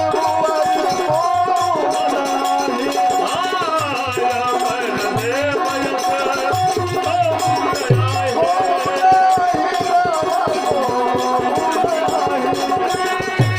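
Indian folk devotional music in teen taal: a melody line with sliding, ornamented notes over steady held tones, driven by regular low drum beats and jingling percussion.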